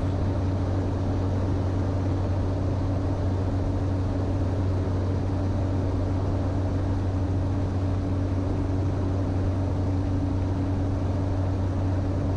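Steady drone of a Cessna 208 Caravan in flight: the single PT6A turboprop engine and propeller running at constant power, a low hum with a steady tone above it.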